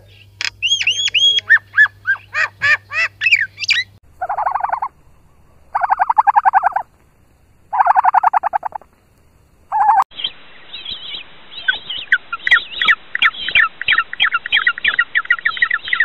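Common myna calling: a run of curved, falling whistled notes for about four seconds. Then three separate bursts of rapid pulsed calls, each about a second long, and from about ten seconds in a different recording of many quick repeated chirps.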